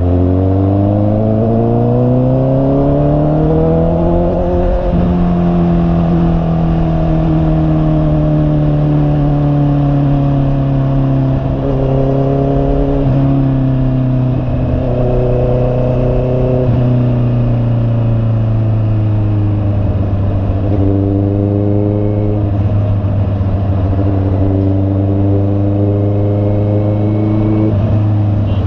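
Honda CB650R inline-four motorcycle engine under way. It accelerates, its note rising over the first four or five seconds, then eases off into a long, slowly falling note. The note breaks briefly a few times.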